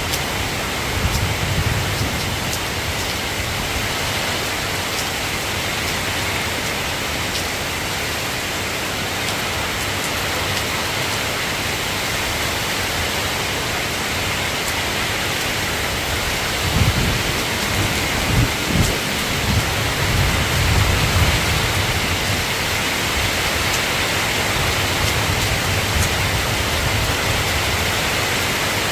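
Steady rain falling, with a low rumble of thunder swelling and fading about two-thirds of the way through.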